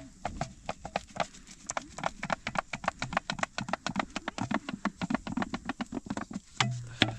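Rapid, irregular sharp tapping or knocking, several strokes a second, ending with two louder knocks near the end.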